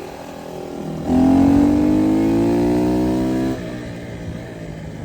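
Dirt bike engine accelerating hard: about a second in the throttle opens and the pitch rises steadily for over two seconds, then drops back sharply as the throttle closes.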